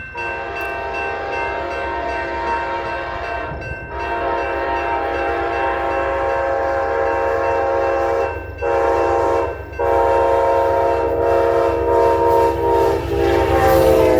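Model diesel locomotive's sound decoder blowing an air horn through its small speaker in the grade-crossing pattern: long, long, short, long. A low diesel engine rumble runs under it, and the horn's pitch sags near the end.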